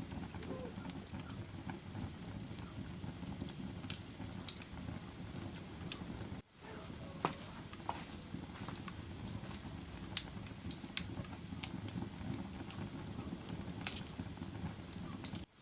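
Fire crackling: a steady low rush of burning with sharp, irregular pops and snaps throughout. The sound briefly cuts out twice, about six and a half seconds in and just before the end.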